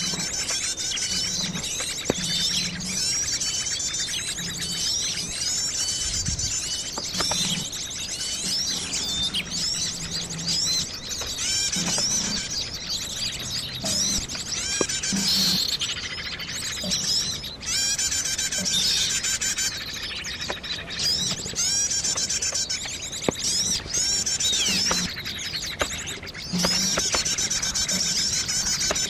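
Several wild birds chirping and calling over one another, many short rising and falling whistled notes.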